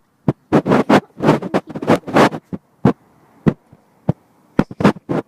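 Dog chewing a stick close to the microphone, an irregular run of sharp crunches and cracks, several a second, with short gaps.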